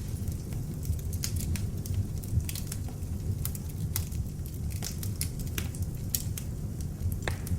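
Beech-wood log fire burning in an open fireplace: a steady low rumble of the flames with frequent sharp, irregular crackles and pops.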